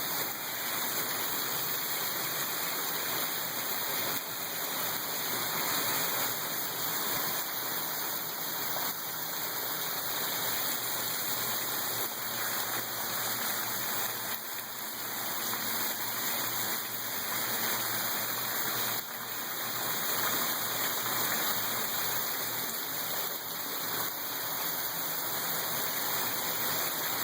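Heavy rain pouring down in a steady, even rush of noise.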